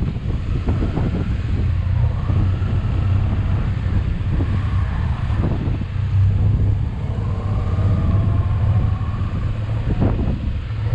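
Motorcycle engine running steadily at road speed, a constant low drone under wind rushing over the microphone.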